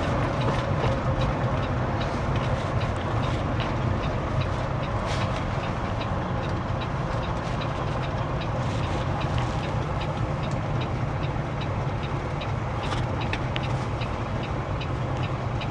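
Semi-truck's diesel engine and road noise heard from inside the cab: a steady low drone with an even hiss over it.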